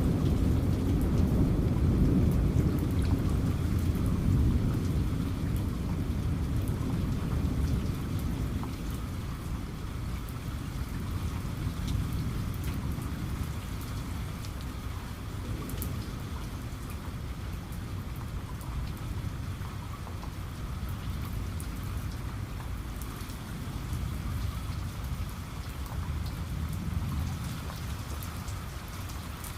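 Steady heavy rain falling, with a low rumble of thunder dying away over the first several seconds.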